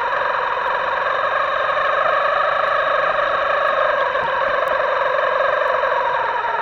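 Small electric motor of an RC model boat running steadily, a distorted whine whose pitch drifts slowly up and down.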